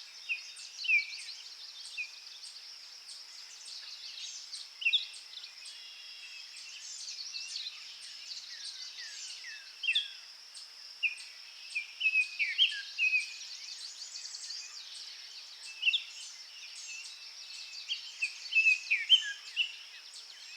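Forest birds chirping: many short, sharp calls and quick downward-sliding notes from several birds, over a steady high-pitched drone.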